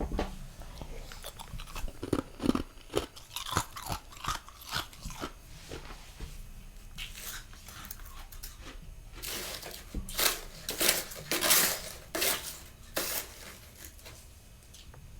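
Close-up crunching bites and chewing of freezer frost, a dense crackle, in two runs: one over the first several seconds and a louder one from about nine to thirteen seconds in.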